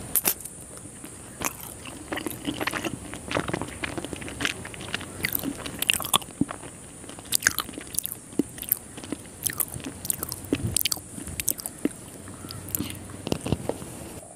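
Close-miked chewing of a piece of Indian sweet: a bite, then irregular wet mouth smacks and clicks, over a steady high hiss.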